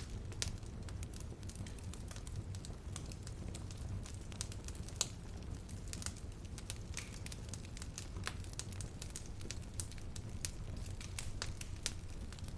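Wood fire burning in a fireplace: a steady low rumble with frequent irregular crackles and pops, the sharpest about five seconds in.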